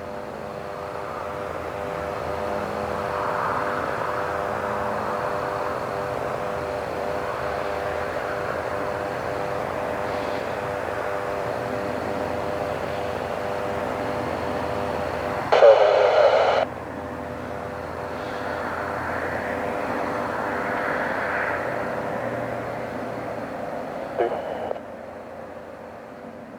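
Aircraft engine drone from a military plane flying overhead: a steady hum with a rush of noise that swells and fades. A brief loud burst of noise cuts in about sixteen seconds in.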